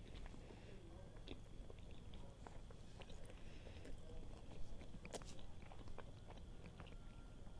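Close-up chewing of a fried saafale (shaphaley) meat pastry, with scattered short clicks through the chewing.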